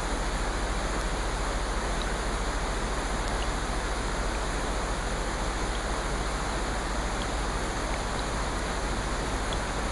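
Steady, even rushing hiss of a nature-sound track, with a few faint light ticks scattered through it.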